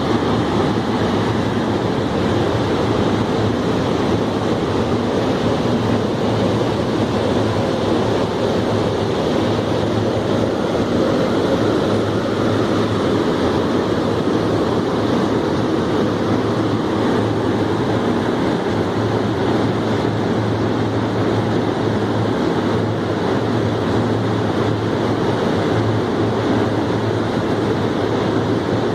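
Grape drying and sorting machine running steadily: an even rush of air and machinery over a constant low hum.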